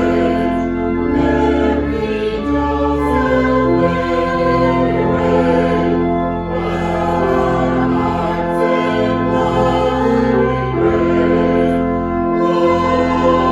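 Slow sacred music of sustained chords that change every second or two over a low bass line, with a choir-like sound.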